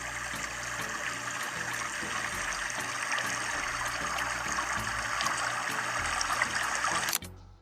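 Water gushing steadily from a small DIY water pump, with an even rushing sound that cuts off abruptly near the end.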